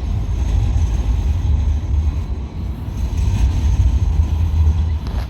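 Loud, steady low rumble with no clear pitch, wavering in level.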